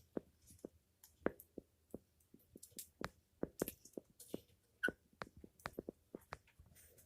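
African grey parrot preening: a quick, irregular run of small beak clicks and taps with soft feather rustles, and one brief high squeak about five seconds in.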